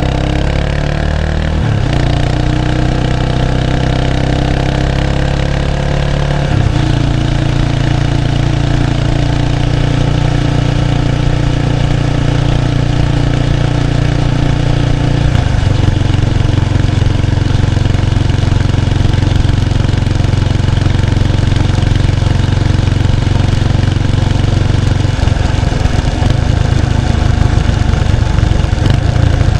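Exhaust of a 1993 Kawasaki Estrella's 250cc single-cylinder engine through its stock muffler, recorded close at the tail while riding. The engine note runs steadily and changes pitch in steps a few times.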